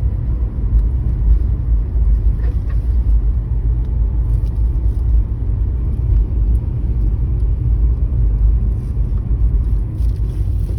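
Nissan Juke driving, with a steady low rumble from the road and engine. A few faint short creaks come through about two and a half seconds in and near the end: the front-end creak heard since a front wheel and strut were replaced after an impact, which the owner suspects is a suspension fault.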